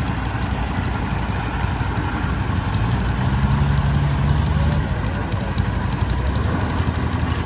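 Farm machine's diesel engine running steadily, swelling louder for a second or two near the middle.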